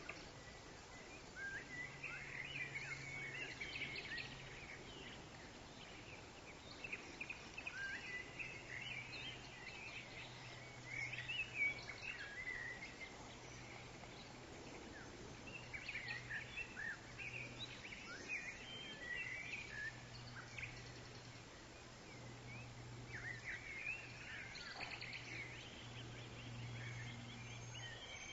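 Forest birds chirping and twittering in bursts of several seconds, over a faint low steady drone.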